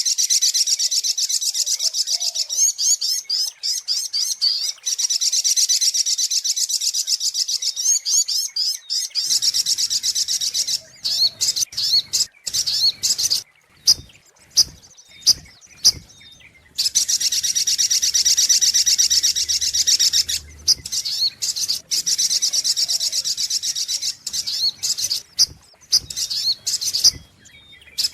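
Sogok ontong sunbird singing a fast, high-pitched twittering trill in long unbroken runs. Midway the song breaks into separate short chirps with pauses between them, then the continuous trill resumes.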